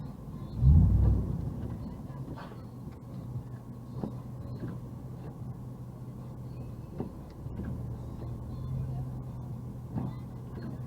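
Car engine running with a steady low hum, a loud low thump about a second in, and a few faint clicks.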